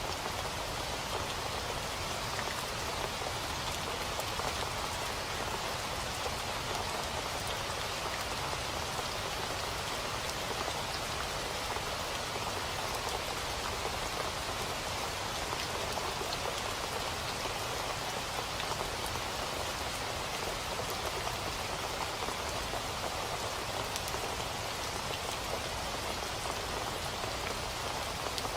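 Steady rain falling, an even hiss with fine scattered drop ticks on a surface.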